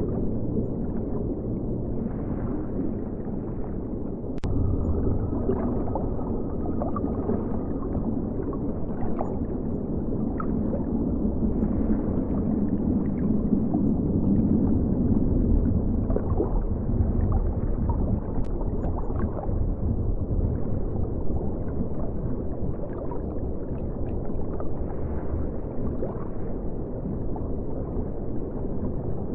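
Continuous muffled rush and gurgle of flowing river water, dull and low-heavy as heard through a camera submerged in the river, with a couple of sharp clicks.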